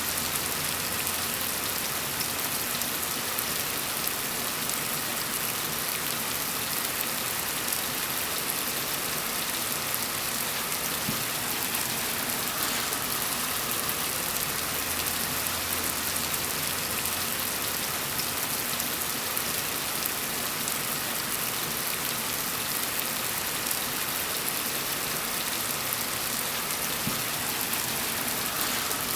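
Steady rain falling on a surface, an even hiss of many drops with no change in strength.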